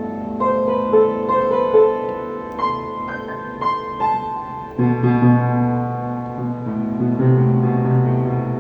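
Piano music: a melody of struck notes over sustained chords, with deeper bass notes coming in about five seconds in.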